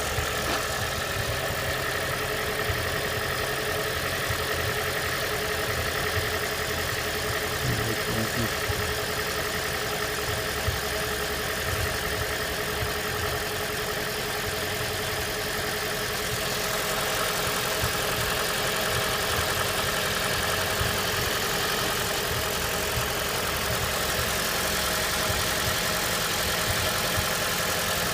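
Third-generation Toyota Prius's 1.8-litre four-cylinder petrol engine running cold, with a knocking that the owner cannot place.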